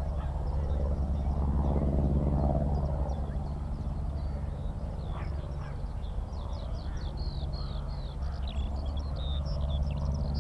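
Low, steady drone of a small propeller aircraft's engine, swelling about two seconds in, with skylarks singing a rapid high warbling song that grows busier from about six seconds in.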